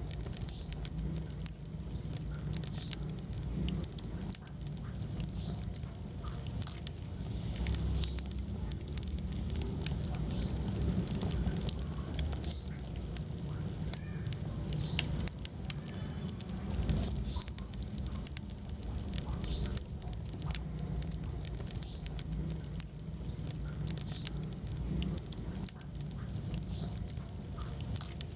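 Wood fire crackling and popping, with many short sharp snaps over a steady low rumble from the burning logs.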